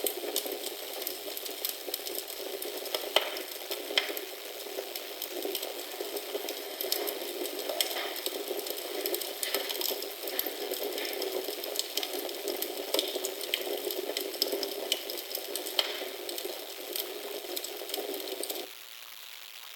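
Wood fire crackling in a fireplace: a steady hiss with frequent sharp pops and snaps. About a second before the end it drops suddenly to a quieter, even hiss.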